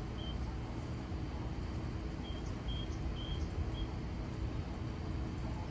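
Steady low outdoor rumble with a bird giving short, high chirps about six times.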